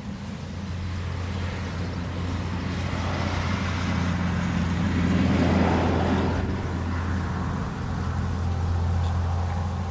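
Diesel locomotive of a 762 mm narrow-gauge sugar cane railway running, a steady low engine drone under a rumble that swells to its loudest about five and a half seconds in, eases, then rises again near the end.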